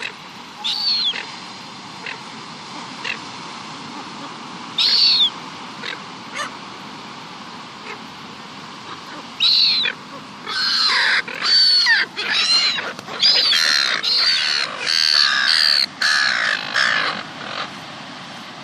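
Seagulls calling as they fight over food. Single harsh calls come about a second, five seconds and nine and a half seconds in, then a rapid run of loud calls lasts about seven seconds near the end.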